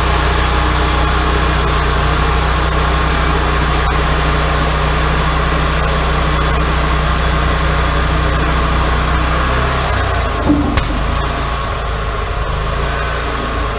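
Woodmizer LT40 sawmill's engine running steadily with a steady mechanical hiss over it. About ten seconds in, the engine note shifts, a short sharp knock is heard, and the hiss thins out.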